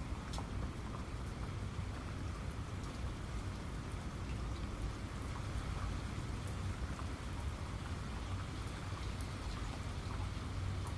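Steady rain falling, with a low rumble underneath and scattered sharper taps of individual drops.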